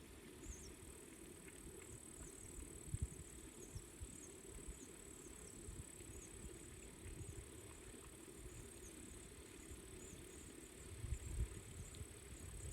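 Faint outdoor ambience of small birds giving many short, high, quick downward chirps over a steady high insect-like drone and a low rumble.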